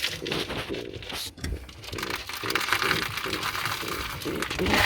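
Racing pigeons in a loft, a run of quick, repeating low coos with rustling and shuffling from the birds.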